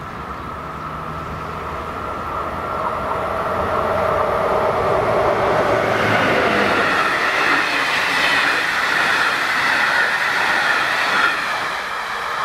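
A train approaching the level crossing, its rumble and wheel noise growing louder over the first half and then holding. The crossing's classic warning bell rings steadily throughout.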